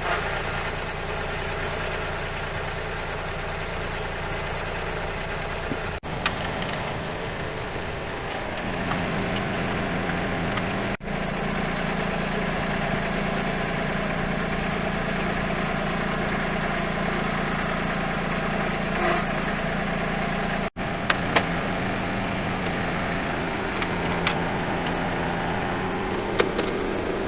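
Kubota tractor's diesel engine running steadily, rising to higher revs about nine seconds in, cut between several clips, with a few short sharp clanks in the later part.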